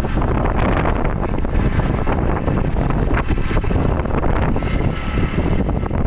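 Heavy wind noise buffeting the microphone over a steady low rumble, as from a moving vehicle.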